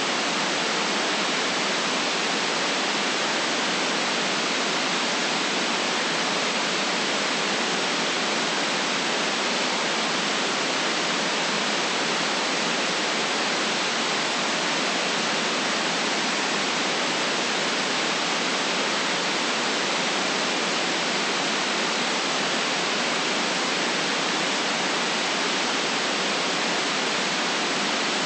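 Steady, unchanging white noise hiss with no deep bass and no variation, played as a continuous sleep sound.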